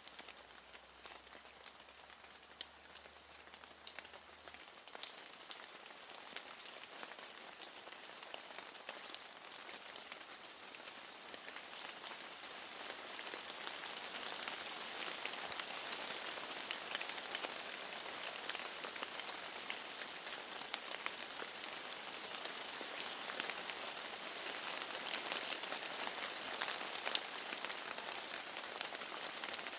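Steady rain falling against a window, an even hiss with many single drops ticking; it swells louder about halfway through and stays so.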